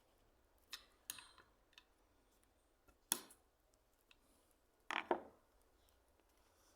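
A few scattered light clicks and knocks of hand-plane parts or tools being handled, the sharpest about three seconds in and a quick double knock about five seconds in.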